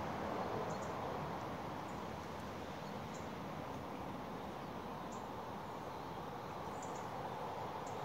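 Outdoor garden ambience: a steady background hiss with short, faint, high bird chirps every second or so.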